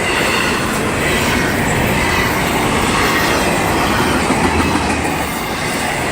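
Freight train cars rolling past, a steady rumble and clatter of steel wheels on the rails, with a faint high squeal of wheels.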